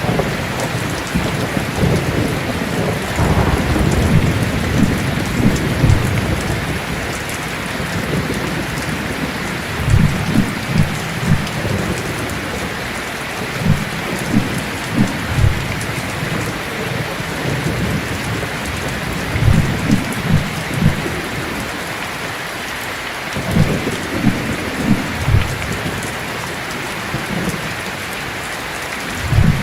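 Heavy rain falling steadily in a thunderstorm. Low thunder rumbles roll in again and again, a cluster every few seconds.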